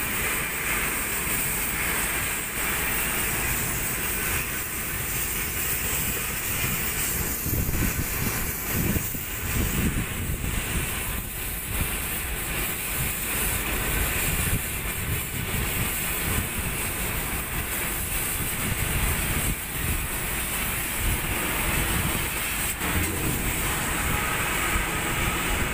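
Steady, loud hissing rush with an uneven low rumble underneath, the broad noise of shipyard machinery and wind.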